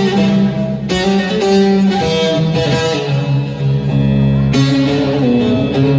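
Instrumental passage of a Turkish folk song: a plucked string instrument plays a melody over sustained low notes.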